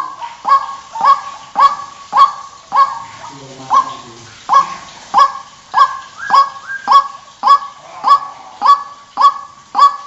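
White-breasted waterhen (ruak-ruak) calling: a loud, harsh note repeated about twice a second, with one short break about three seconds in.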